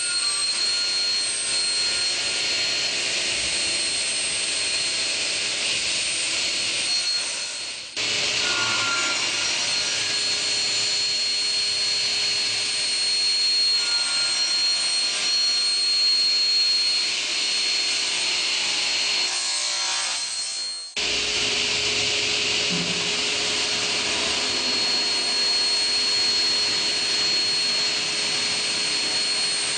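Double-head CNC cutting machine running, its saw motors giving a steady high whine over loud sawing noise. The sound breaks off briefly twice, about 8 and 21 seconds in.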